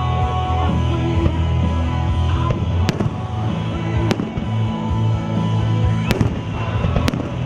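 Aerial fireworks bursting: several sharp bangs, about a second apart in the second half, over music playing from loudspeakers.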